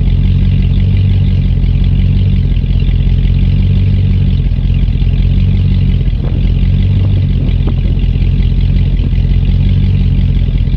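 6.0L LY6 gas V8 of a 2009 GMC Sierra 2500HD idling steadily through a Solo Performance Mach46 4-inch exhaust, still warming up after a cold start, its idle wavering slightly.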